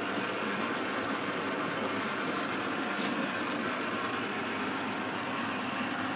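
Beko WM74165W washing machine running a steady, even mechanical noise, with a couple of faint brief hisses about two and three seconds in.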